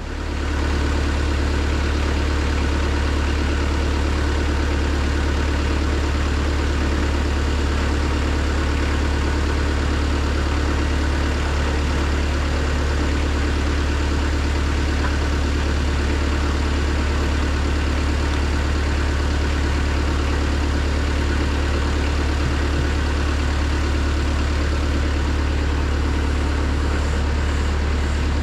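Car engine idling steadily: a constant low hum that does not change.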